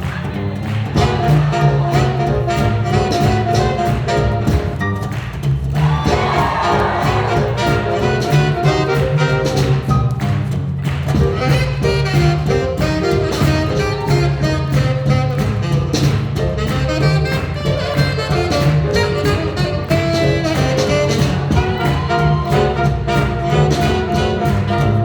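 Live small jazz band playing swing music with a steady beat and a bass line under the melody instruments.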